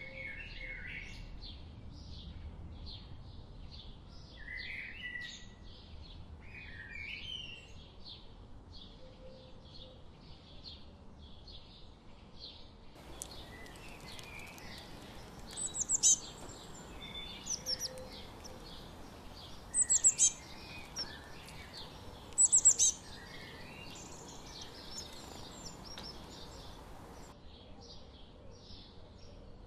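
Songbirds chirping in a steady chorus of quick high notes, with warbling phrases in the first few seconds. In the middle one bird gives a loud, sharp, very high call four times, a few seconds apart.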